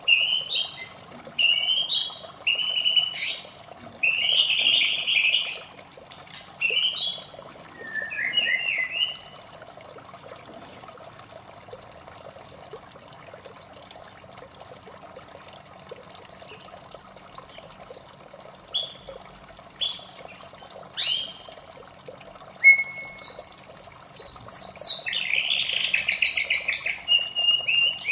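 White-rumped shama singing in bursts of varied, rapid whistled and chattering phrases, breaking off for several seconds in the middle before starting again. A steady trickle of water runs underneath.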